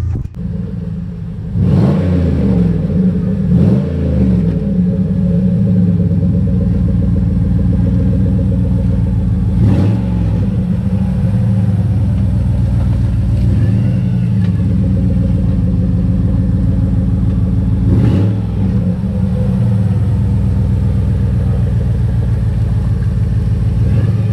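Chevrolet Impala SS V8 idling through its exhaust, revved briefly about four times and dropping back to a steady idle each time.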